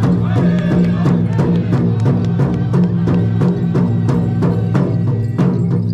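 Music for a hoop dance: a drum struck in a fast, even beat, about four strikes a second, over a steady low drone, with a voice singing a melody above it.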